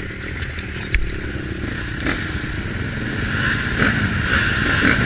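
Four-stroke Husqvarna motocross bike engine running hard, heard from the helmet, growing louder with wind rush over the microphone. Sharp knocks and clatter stand out about a second in, about two seconds in and near four seconds in.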